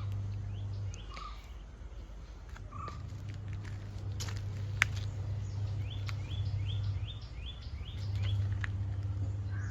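Backyard birds chirping: two short calls early, then a quick run of about seven short rising chirps. A low steady rumble lies underneath, with a single sharp click about five seconds in.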